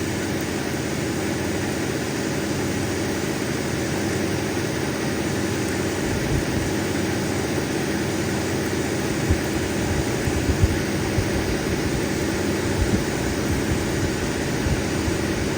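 Steady whirring of a lapidary cabbing machine's motor and grinding wheels running, with a few soft low knocks in the second half.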